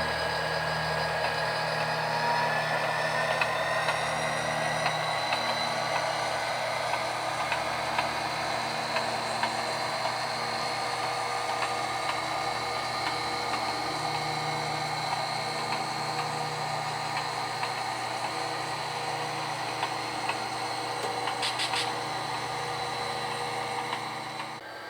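Sound-equipped HO scale diesel locomotive's decoder playing its diesel engine sound as it pulls out. The engine note rises in pitch over the first few seconds, then runs steadily.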